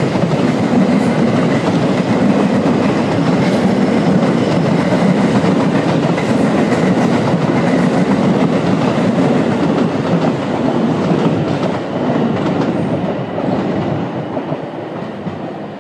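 Train passing through the station, loud and steady, then fading away over the last few seconds.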